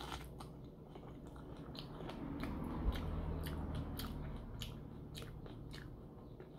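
Biting into and chewing boiled corn on the cob close to the microphone: a run of small crunching clicks, with a soft knock about three seconds in.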